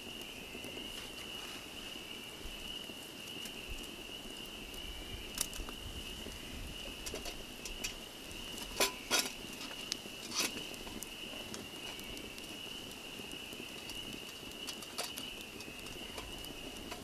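Lake ambience heard from a canoe: a steady high-pitched drone over an even wash of wind and water, broken by a handful of sharp knocks, the loudest a few near the middle.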